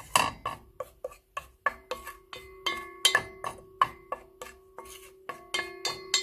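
Metal utensil striking and scraping a metal pan while stirring dry spices as they toast, about three strikes a second. The pan rings with a steady tone between strikes.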